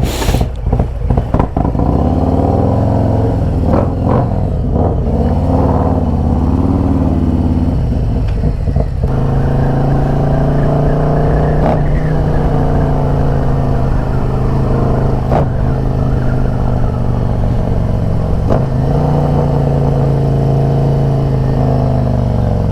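Harley-Davidson V-twin motorcycle pulling away and accelerating through the gears for the first several seconds, then running at a steady cruise with a brief dip in engine note near the end, as from a gear change. A few short knocks sound along the way.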